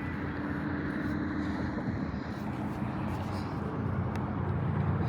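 A boat engine running steadily, a low even hum with a constant pitch.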